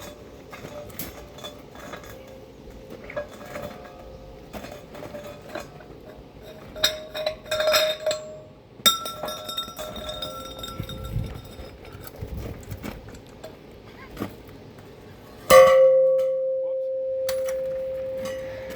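Metal parts clinking and knocking as they are handled, then a loud metal clang about three-quarters through that rings on as one steady tone, fading slowly.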